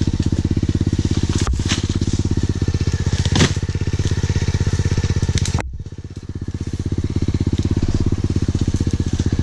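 Engine running steadily with a fast, even firing pulse. It eases off briefly about six seconds in, then picks back up.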